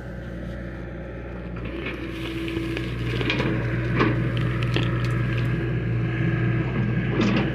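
John Deere excavator's diesel engine running steadily. From about three seconds in, crunching and cracking knocks come over it and the engine gets louder, as the machine works material.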